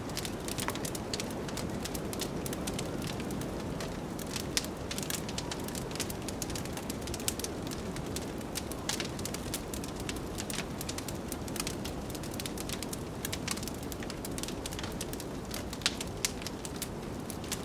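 Wood fire crackling in a fireplace, with frequent irregular sharp pops, over the steady low rush of blizzard wind.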